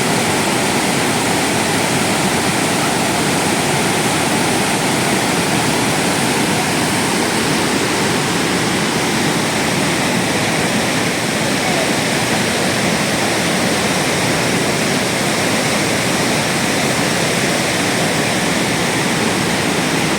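Athirappilly Falls, a large waterfall, with water pouring down in a steady, loud rush.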